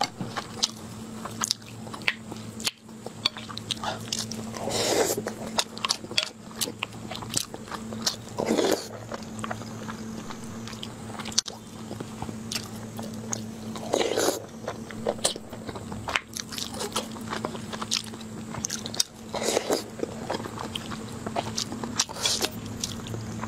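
Close-miked chewing of braised pork belly and rice: wet mouth clicks throughout, with a few louder, longer mouth noises about every five seconds.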